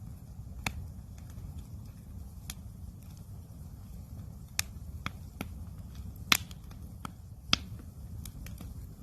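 Wood campfire crackling, with sharp, irregular pops and many smaller ticks, the loudest pop about six seconds in, over a steady low rumble.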